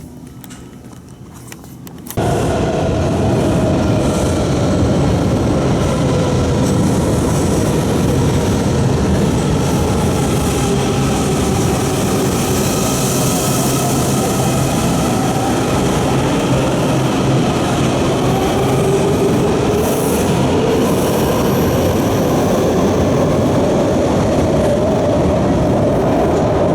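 Washington Metro train in motion: a loud, steady rumble of wheels on rail with a wavering motor whine, starting abruptly about two seconds in.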